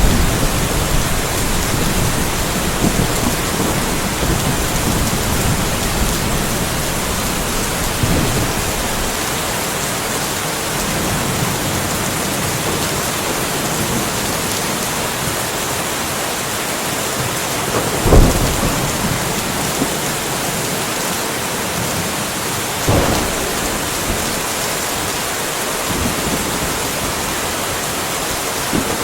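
Steady rain falling, with low thunder rumbling through the first third. About two-thirds in comes a short, sharp thunderclap, the loudest moment, followed by a weaker one about five seconds later.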